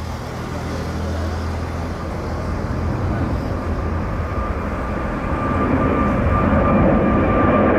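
Jet airliner engines growing steadily louder as the aircraft nears, a deep rumble with a steady whine coming in over it in the second half.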